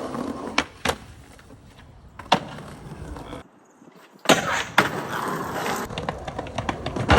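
Skateboard wheels rolling on concrete, with several sharp clacks and smacks of the board landing or hitting the ground. The rolling drops out for about a second midway, then comes back louder with more hits.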